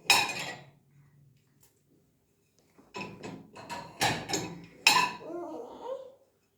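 Dishes and cutlery clinking and knocking as they are taken out of a dishwasher and set down. There is one clatter at the start, then a run of sharp knocks and clinks from about three to six seconds in.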